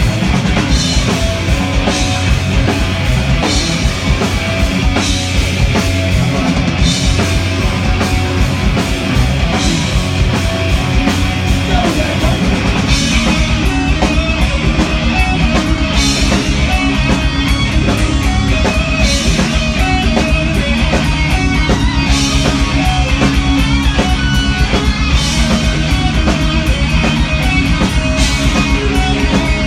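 Heavy rock band playing: distorted guitars, bass and drum kit with recurring cymbal crashes.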